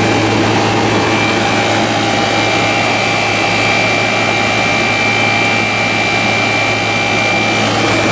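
Vintage window air conditioner running steadily, its fan blowing hard with a steady low hum and a thin high whine over the rush of air. It is cooling and still pulling moisture out of the air.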